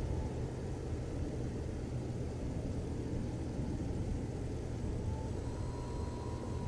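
Wind rumbling on the microphone, a steady low buffeting noise. A faint, thin, steady whine comes in about five seconds in.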